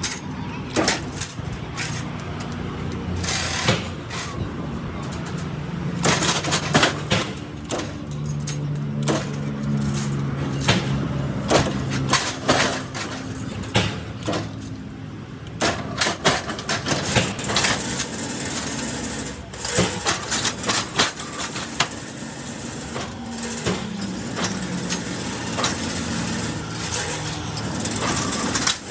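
Machinery running with a steady hum that shifts in pitch now and then, under frequent sharp knocks and clatter.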